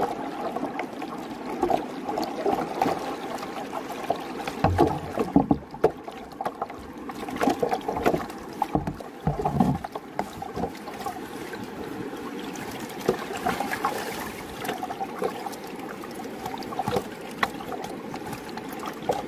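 River water rushing and splashing close by, with scattered sharp knocks and clicks of river stones being handled.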